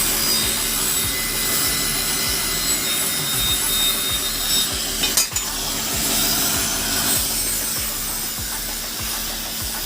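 Steady rasping of abrasive rubbing against the steel of a hand-forged chopper blade in repeated strokes, over a faint steady hum.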